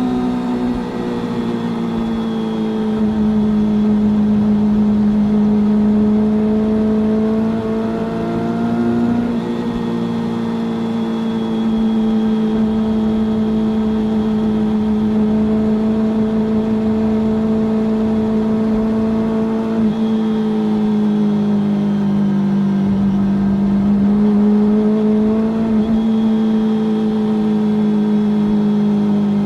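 Kawasaki Ninja ZX-25R's 249 cc inline-four running through an Akrapovič full-carbon exhaust at high revs while riding. It holds a fairly steady high pitch, with a few slow dips and rises as the throttle changes.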